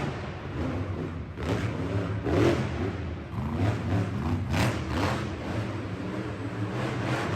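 Monster truck engine running and revving, its pitch rising and falling, with a few short noisy surges.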